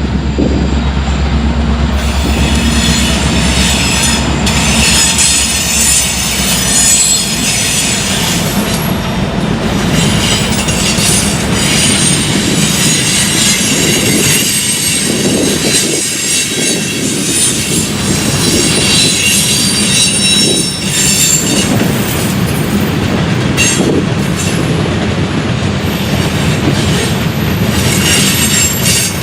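Freight train rolling past, its wheels squealing against the rails over a steady clatter of cars on the track. A deep engine drone is heard in the first few seconds and then fades under the rolling noise.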